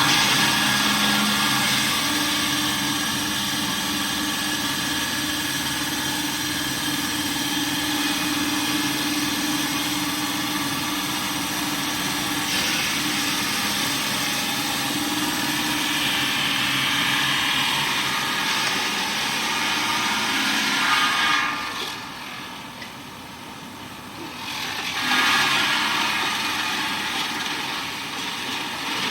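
Engine of heavy machinery running steadily. It drops away for a few seconds about 22 seconds in, then picks up again.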